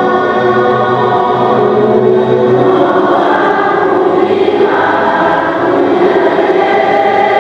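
Choral music: many voices singing sustained chords over orchestral accompaniment.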